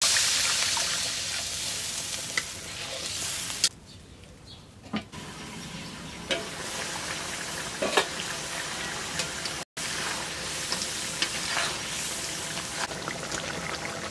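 Goat meat sizzling as it fries in spice paste in a cooking pot, stirred, with occasional sharp knocks against the pot. The sizzle drops away for about a second near four seconds in, then picks up again.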